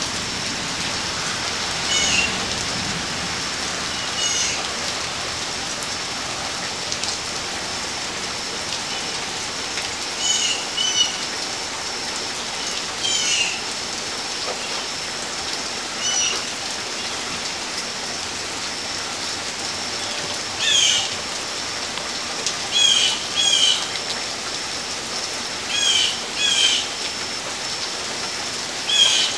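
Steady rain falling, with a bird calling in short chirps every few seconds, more often in the second half. A faint steady high-pitched tone runs underneath.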